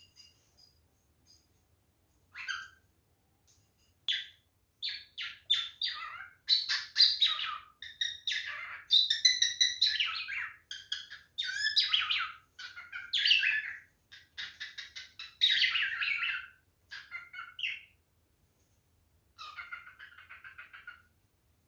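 Male cockatiel singing: a string of chirps, whistles and fast repeated notes that starts about two seconds in, with a short pause near the end before a softer closing phrase.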